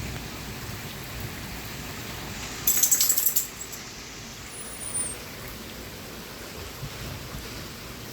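Steady hiss of the thunderstorm's rain and wind. About two and a half seconds in, a loud burst of sharp crackling lasts under a second.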